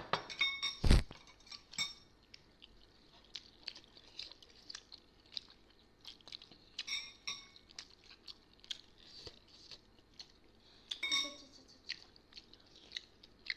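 Close-up eating sounds of people chewing steamed buff momos, with small wet mouth clicks throughout. Spoons clink with a ringing tone against porcelain soup bowls near the start and again about eleven seconds in, and a louder knock comes about a second in.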